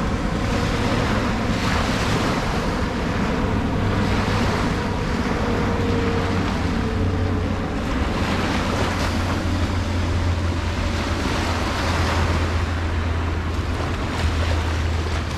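Ocean surf on a beach: a continuous rush of waves breaking and washing in, over a steady low rumble.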